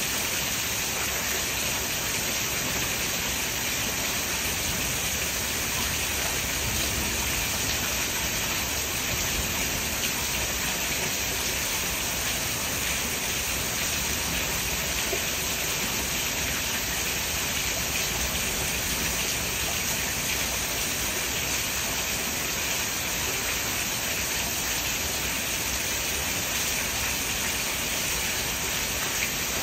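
Steady summer rain falling, an even hiss that holds at the same level throughout.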